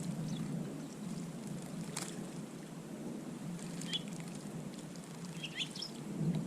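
Small garden birds giving a few short, high chirps, a couple about four seconds in and a few more near the end, over a steady low rumble, with a single sharp click about two seconds in.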